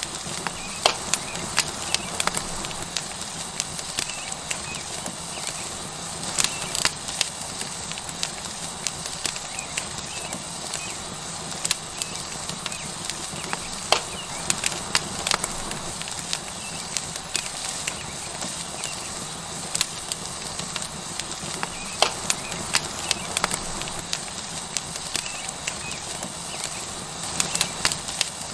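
Tomahawk steak sizzling on a hot rock over a wood fire: a steady hiss of fat cooking, broken by irregular sharp crackles and pops from the burning wood.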